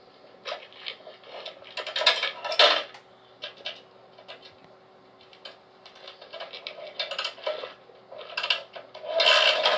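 Yamaha XT500 single-cylinder engine being kick-started: repeated strokes of the kickstarter give separate bursts of mechanical rasping and clatter as the engine is turned over without catching. Near the end a steadier, continuous sound begins as it starts to run.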